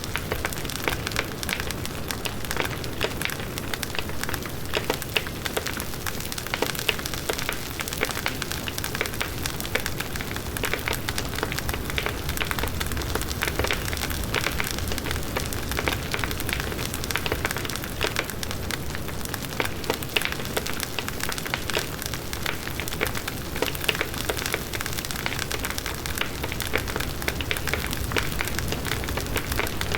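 Large wood bonfire burning: constant crackling and popping of burning wood over the low rush of the flames in the wind.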